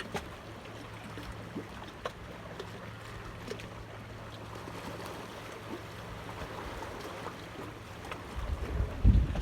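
A steady low hum with scattered small clicks and ticks. About eight seconds in, wind starts buffeting the microphone in loud low rumbles.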